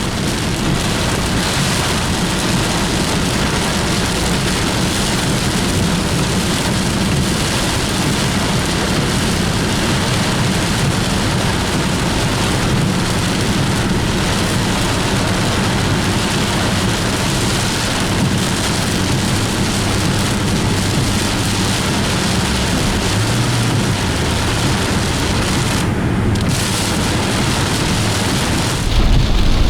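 Torrential downpour drumming steadily on a moving car's roof and windscreen inside the core of a thunderstorm. The low end gets louder just before the end.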